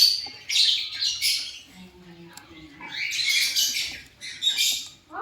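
Lovebird squawking: harsh, high-pitched screechy calls in four bursts, with a short lull about two seconds in.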